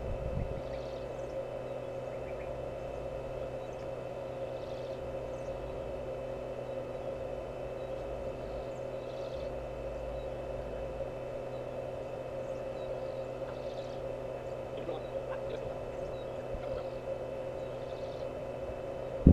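A steady mechanical hum with one strong tone and several fainter steady ones, and faint short high chirps every second or two.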